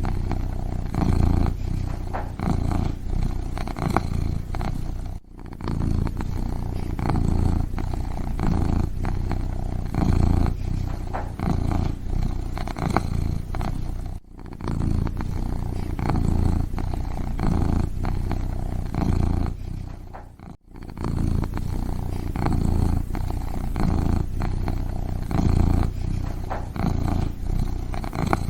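Kitten purring close to the microphone, a steady pulsing rumble that breaks off briefly three times.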